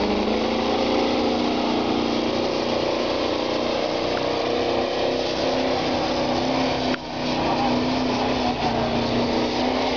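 Competition pulling tractor's engine running hard at high, steady revs during a pull, with a brief drop in level about seven seconds in.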